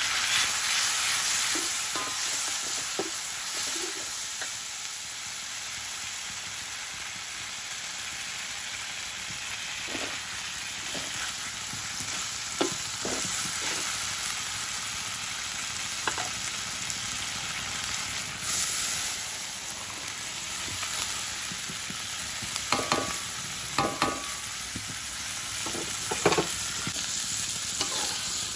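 Sliced onions and canned anchovies sizzling in a steel wok, stirred with a metal wok spatula that scrapes and taps the pan now and then, more often near the end.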